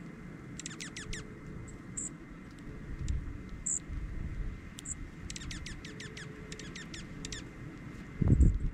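Small songbirds calling: a quick run of about five sharp, falling chirps about half a second in, a few isolated very high thin notes, then a longer run of about ten falling chirps midway. A loud, low rumble or bump comes near the end.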